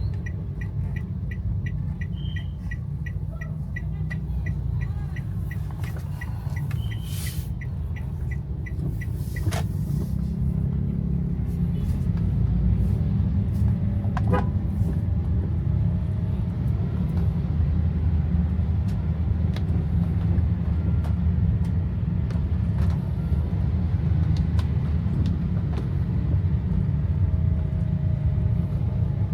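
A car's steady low rumble of engine and road noise while driving in rain, growing louder about ten seconds in. A fast, regular ticking, about three a second, stops about nine seconds in.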